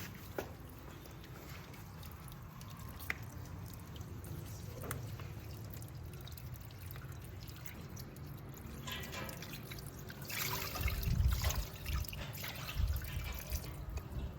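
Water pouring and dripping, with scattered small clicks and a louder stretch about two-thirds of the way through.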